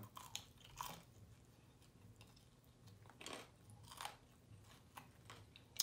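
Close-miked chewing of crispy fried chicken: a few soft, scattered crunches of the breading with quiet mouth sounds between.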